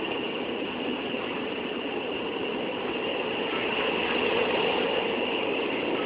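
A train running, a steady noise with no distinct clacks or horn.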